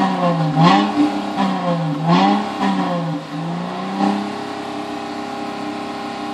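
Dodge Challenger engine and exhaust revved in about four short blips, then settling to a steady idle.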